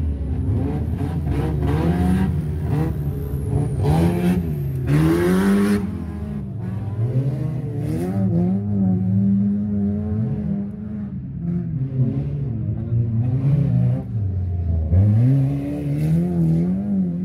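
Engines of old wreck-race cars revving hard, their pitch repeatedly rising and falling as the drivers accelerate and lift off. Near the end the engine note drops low and then climbs again.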